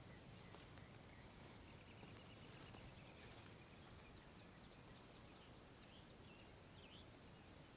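Near silence: faint outdoor ambience, with a run of faint, quick bird chirps about halfway through.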